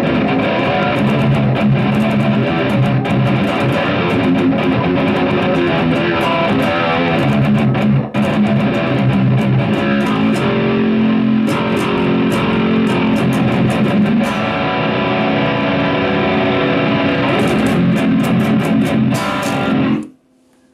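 Baritone seven-string Agile Intrepid 728 electric guitar riffing through a Line 6 POD X3 Live split into tube power amps and two Mauler cabinets, a 1x15/4x10 guitar cab and a 1x18/1x15/2x10 bass cab, heard through a camcorder mic. The playing cuts off suddenly near the end, leaving a faint hum.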